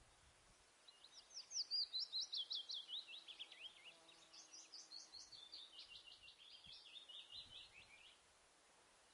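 A bird singing: a long, fast series of quick down-slurred whistled notes, several a second, starting about a second in and running for about seven seconds, loudest in the first few seconds.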